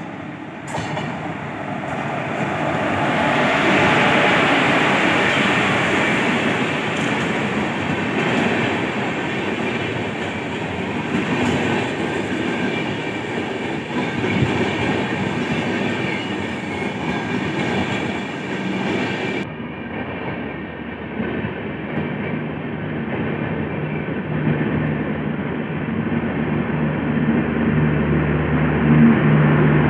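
A WAP-4 electric locomotive and its passenger coaches pass at speed. The train noise is loudest about four seconds in as the locomotive goes by, then stays a steady rumble of coach wheels on the rails. About two-thirds of the way in the sound changes abruptly to coaches rolling past with a low steady hum that grows louder near the end.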